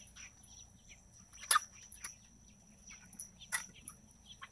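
Chickens giving short chirps and calls, the sharpest about a second and a half in and another about two seconds later, over a steady high insect drone.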